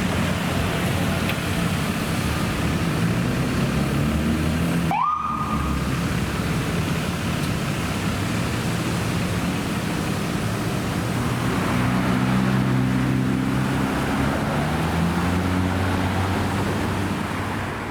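Emergency vehicles' diesel engines running and accelerating away, the engine pitch climbing repeatedly as they pull off. About five seconds in, after a brief break, a short rising siren tone sounds.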